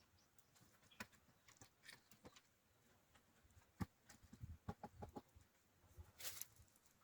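Near silence broken by a few faint, scattered clicks and knocks, with a short cluster of them about two-thirds of the way through.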